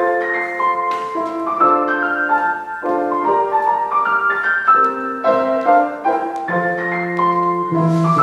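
Piano introduction to a song: chords and a melody line played at a moderate pace, beginning abruptly, with a lower bass note coming in near the end.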